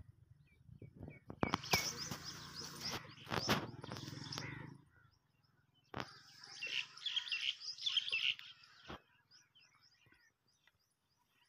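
Small birds chirping and twittering in two bouts, the second starting about six seconds in, with a few sharp clicks among them.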